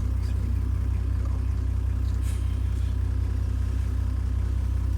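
Safari truck's engine idling with a steady low rumble.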